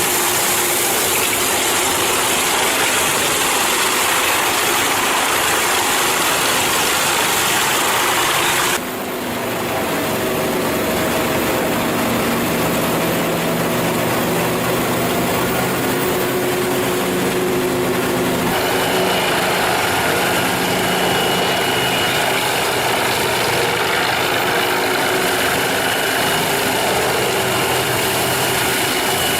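Engine-driven wood chipper machinery running loudly and steadily, the sound changing abruptly about nine seconds in and again about eighteen seconds in.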